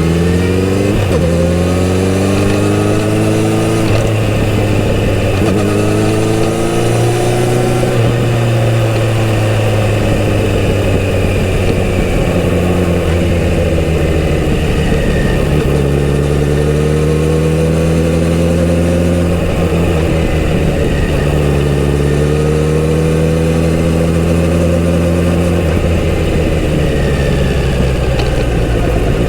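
Kawasaki Z900RS's inline-four engine through its stock exhaust, under way: the pitch rises and falls several times as the bike accelerates and eases off, with a steadier stretch of cruising in the middle.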